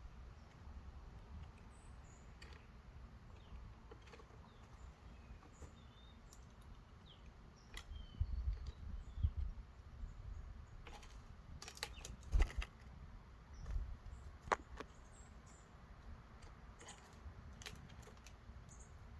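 Small songbirds at a wooden feeder: a few faint chirps, then scattered sharp taps and knocks from about eight seconds in, over a low wind rumble.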